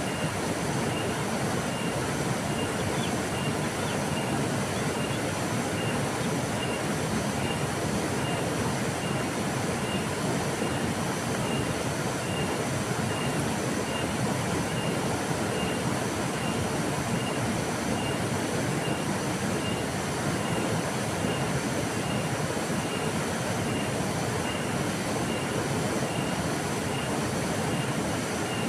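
River water flowing steadily, an even rushing noise. A faint high tone pulses through it a little more than once a second.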